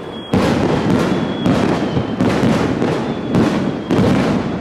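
Fireworks display: aerial shells bursting in quick succession, about six booms, each trailing into crackle.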